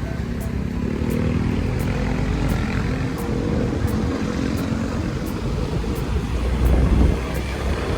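Motorbike running steadily while being ridden, with a continuous rush of wind and road noise.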